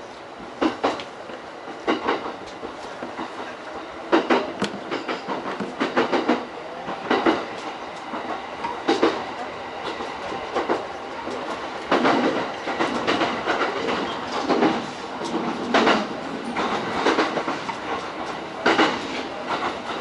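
E231-series commuter train running at speed, its wheels clacking over rail joints about every second or so over a steady running noise, heard from inside the front car.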